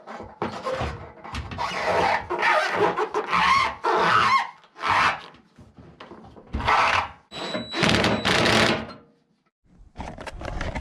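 Hands and tools fitting a hose clamp onto a fuel hose: a run of irregular scraping and rustling bursts with thunks, and a brief thin high whine near the end.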